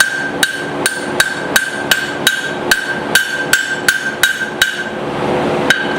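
Blacksmith's hand hammer striking steel on the anvil in a steady rhythm, about three blows a second, with a ringing tone held between blows. The blows break off briefly near the end, and one more follows.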